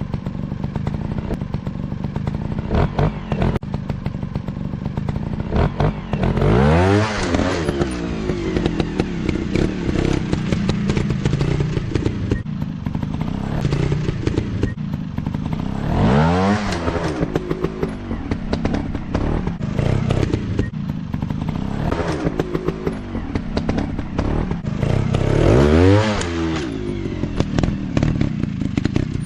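Dirt bike engine running, with its pitch rising and then falling back three times, about ten seconds apart, over a scatter of clattering clicks.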